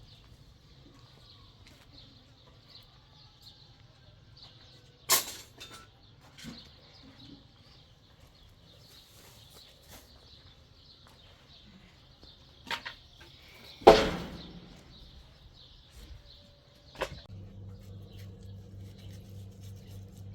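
Several sharp knocks or bangs over a faint steady high-pitched hiss, the loudest about two-thirds of the way through with a ringing tail. A steady low hum starts near the end.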